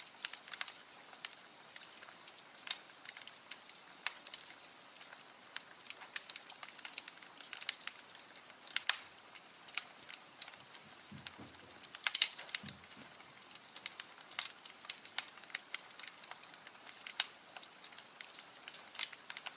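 Wood fire crackling in a fireplace: a steady faint hiss with frequent irregular sharp pops and snaps.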